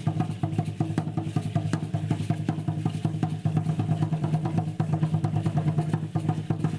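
Fast, continuous drumming, several strokes a second, over a steady low sound.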